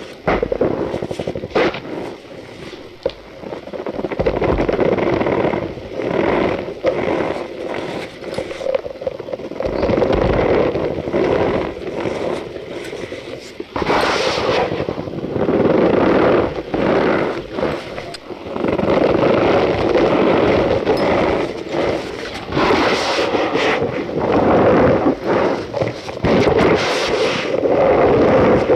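Cornstarch powder being squeezed and crushed by hand, giving a dense crunchy squeaking crackle. It comes in repeated swells of a second or two each.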